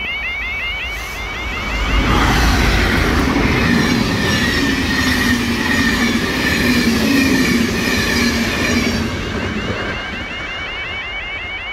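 Level crossing's warning alarm warbling in rapid repeated chirps, drowned out for about seven seconds by a diesel passenger train passing at speed: a loud rumble with a steady engine tone. The warbling alarm is heard again once the train has gone by.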